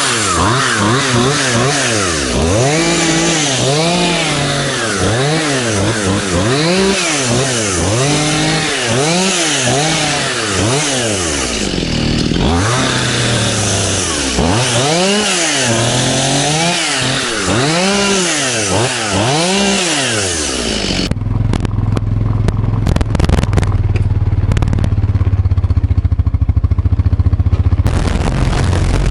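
Stihl MS211C two-stroke chainsaw revved up and down over and over while cutting brush, its pitch rising and falling about once a second. About two-thirds of the way in the sound cuts abruptly to a steady low engine hum with rattling.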